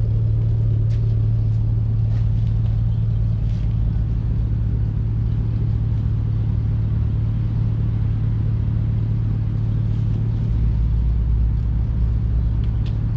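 A road vehicle driving, with a steady low engine drone and road rumble; the lowest rumble grows heavier for a few seconds near the end.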